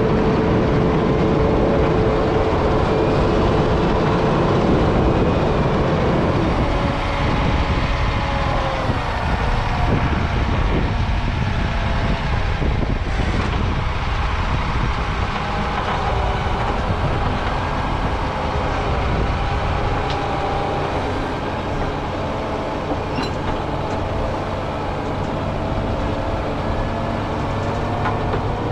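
John Deere 670G motor grader's diesel engine running steadily under working load, with a faint whine that rises and falls at times.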